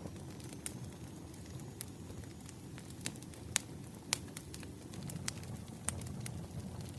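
Burning firewood crackling: irregular sharp pops, about a dozen, over a steady low rumble of the fire.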